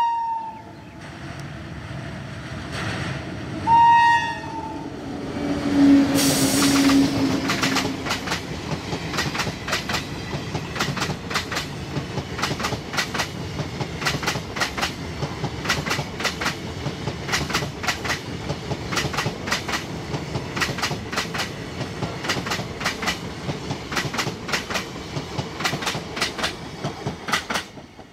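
An Indian Railways express passing at speed. A short horn blast sounds at the start and another about four seconds in. The locomotive goes by with a loud rush about six seconds in, then the coach wheels clatter over the track in a steady, loud clickety-clack for many seconds, dropping off sharply near the end as the last coach passes.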